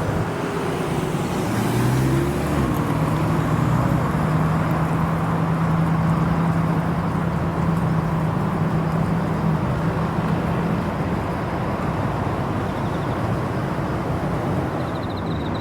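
A car engine running with a steady low drone that fades out about two-thirds of the way through, over a constant wash of traffic noise.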